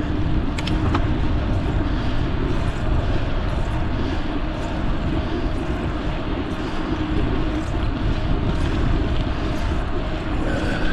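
Wind rushing over the microphone of a moving bicycle rider: a steady, dense low rumble.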